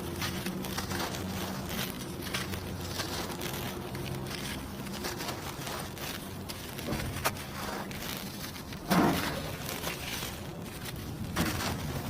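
Dry cement crumbling and crunching in a scatter of small crackly ticks, with one louder crunch about nine seconds in. A faint steady low hum runs underneath.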